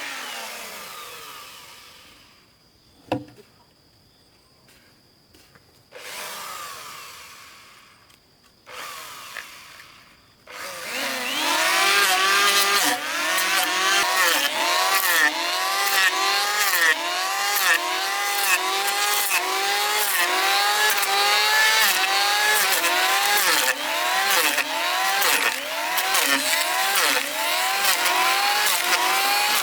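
A power tool's motor running under load, its pitch rising and falling in a steady rhythm about one and a half times a second, from about a third of the way in. Before that, a motor winds down, followed by a quiet spell with a single sharp click and two short rushes of noise.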